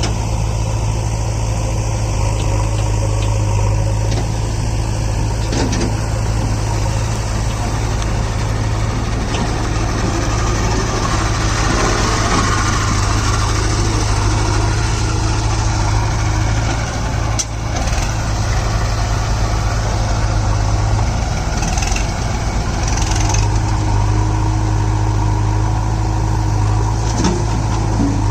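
Heavy diesel machinery engine running steadily at an even speed, with a few sharp knocks.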